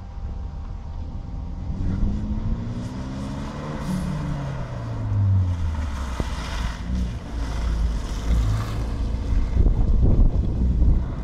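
Renault Mégane RS's turbocharged four-cylinder engine revving up, then easing off to a low steady drone as the car manoeuvres slowly around cones.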